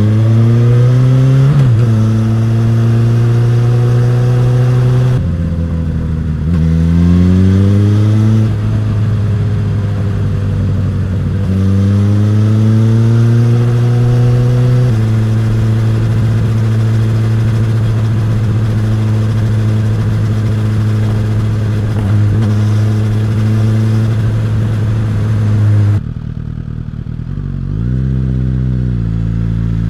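Suzuki GSX-S1000 inline-four motorcycle engine and exhaust pulling hard through several gears, its pitch climbing and dropping back at each upshift. It then holds a steady cruise, and about 26 s in the throttle closes and the pitch falls before picking up again at the end.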